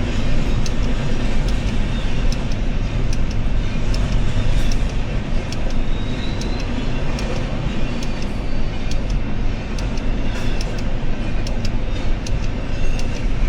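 Freight cars of a long Union Pacific train rolling past at about 47 mph: a steady loud rumble with rapid irregular clicks and rattles of steel wheels on the rails.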